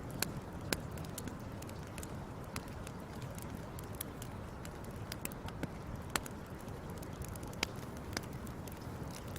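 Fire crackling: irregular sharp pops and snaps scattered through, over a steady low rush of the burning.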